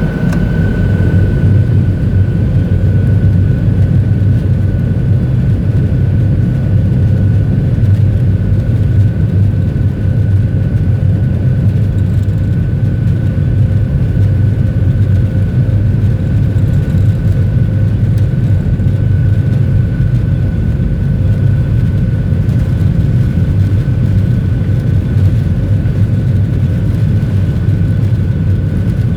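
Boeing 737-800 cabin noise with its CFM56 turbofan engines running steadily under power: a loud, even low rumble with a thin, steady whine above it.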